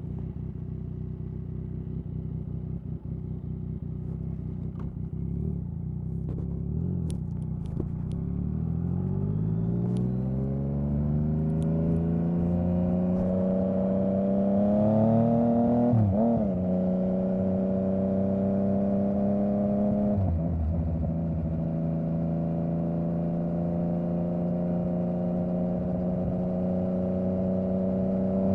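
Yamaha MT-09's three-cylinder engine and exhaust under way: at first running at steady low revs, then the revs climb smoothly for several seconds, dip briefly twice, hold steady at a higher pitch, and start rising again near the end.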